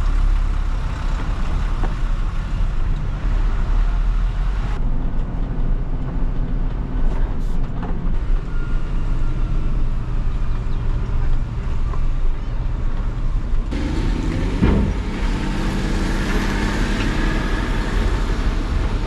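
Skid steer engine running steadily, its pitch rising as it revs up about fifteen seconds in.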